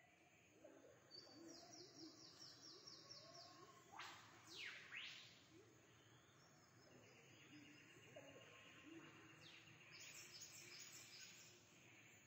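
Faint birdsong: a rapid trill of high repeated notes, then two quick sweeping calls about four seconds in, and more trilling near the end.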